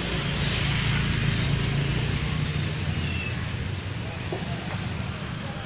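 A dense, steady mass of crickets chirring, over a low engine-like hum.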